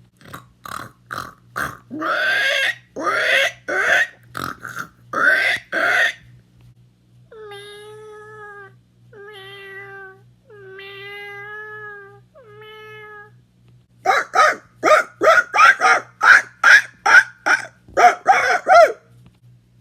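A man imitating animal calls with his voice: about ten short calls, then four longer calls held at a level pitch, then a fast run of loud short calls near the end.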